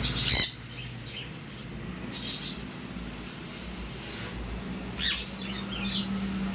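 Parrot calling: a loud, shrill squawk at the very start, then further squawks about two and five seconds in, with softer chirps between.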